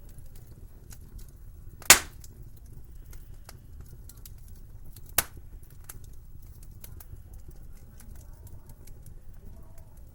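Wood fire crackling in a fireplace: a steady run of small crackles over a low rumble, with two sharp pops from the burning logs, a loud one about two seconds in and a smaller one about five seconds in.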